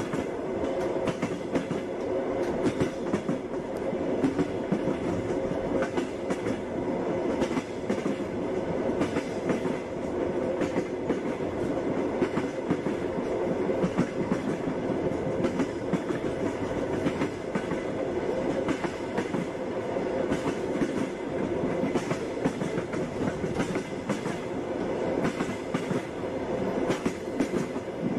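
Moving passenger train: the wheels knock over the rail joints against a steady rolling rumble, with frequent short clicks throughout.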